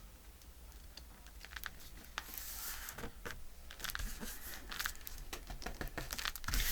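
Paper being handled and pressed down by hand: crinkling and rustling with scattered small taps, getting louder near the end.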